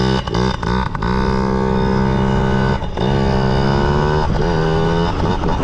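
Yamaha PW50's small two-stroke single-cylinder engine running and revving, its pitch rising and falling, with a brief drop about three seconds in. It has just been restarted after cutting out when the rider accidentally bumped the kill switch.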